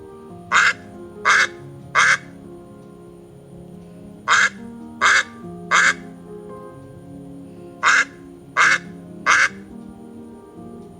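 A bird giving short, loud, harsh calls in three sets of three, the calls about two-thirds of a second apart, over soft sustained background music.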